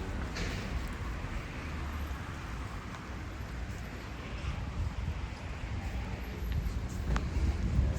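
Outdoor ambience dominated by wind buffeting the microphone as a gusty low rumble, with a few faint ticks.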